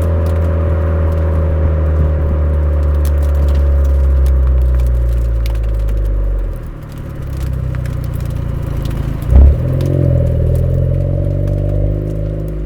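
Suzuki Swift Sport ZC33S's 1.4-litre turbo four-cylinder heard through a Fujitsubo aftermarket exhaust, running steadily with its note slowly falling. About six and a half seconds in the note drops away briefly. A single loud thump comes about nine seconds in, after which the engine note rises again.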